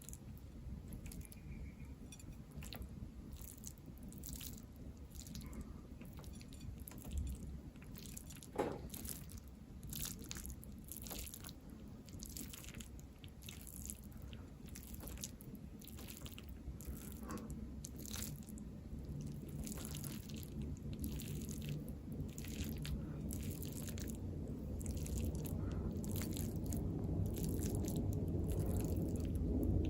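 Close-miked chewing and biting of food, with many short sharp crackles; a low rumble grows louder toward the end.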